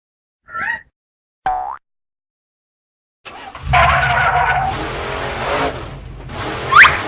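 Cartoon sound effects: two short blips, then after a pause a toy-car engine running with tyre-skid noise, and a quick rising whistle near the end.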